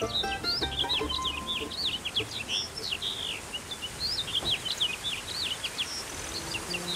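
Birds chirping in a busy chorus of quick, short chirps that sweep up and down in pitch. Soft background music stops about a second in and comes back near the end.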